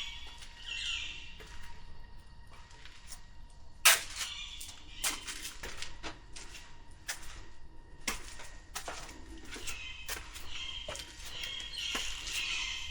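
Footsteps at a walking pace, a sharp step about every two-thirds of a second, the loudest a hard click about four seconds in. Birds call near the start and again near the end.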